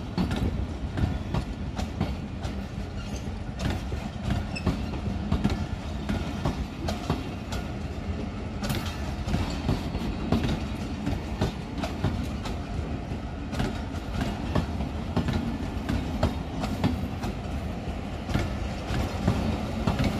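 Pakistan Railways passenger coaches rolling slowly past on arrival, their wheels knocking over the rail joints in an irregular clickety-clack over a steady rumble.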